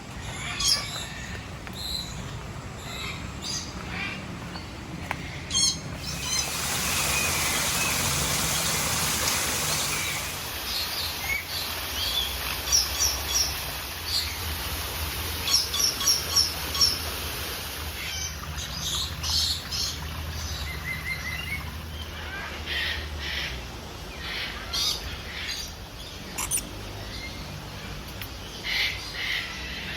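Many aviary birds chirping and calling in short, scattered notes. About six seconds in, a steady hiss lasts for about four seconds.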